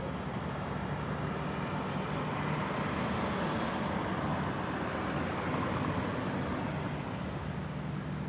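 Steady road traffic noise: vehicles passing over a low, even engine hum, the rush of tyres swelling a little in the middle.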